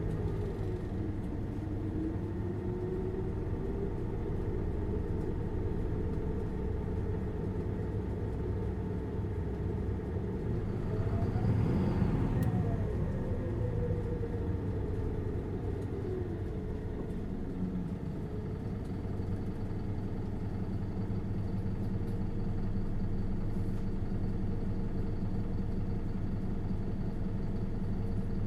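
Isuzu Erga LV290N1 city bus's four-cylinder diesel engine heard from inside the cabin, running steadily. About twelve seconds in, a sound swells, rising in pitch and then falling away.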